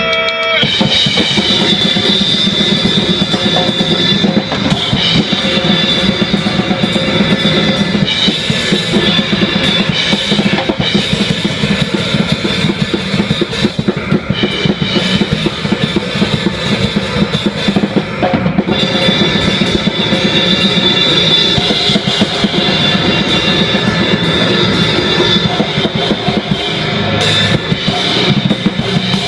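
Loud live band music: a drum kit with bass drum and cymbals pounding fast and without break under a dense wall of distorted noise with a steady high ringing tone. The song kicks in about half a second in.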